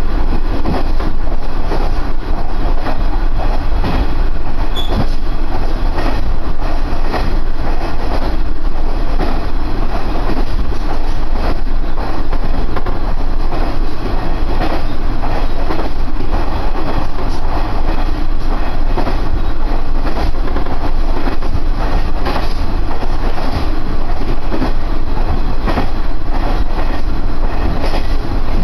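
Cabin sound of a diesel railcar running along the line: a steady low engine and wheel noise, with faint clicks of the wheels over rail joints.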